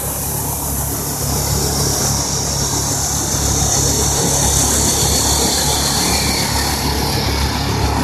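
Jaguar XE S's supercharged V6 engine running as the car is driven around a cone course, over a steady low hum.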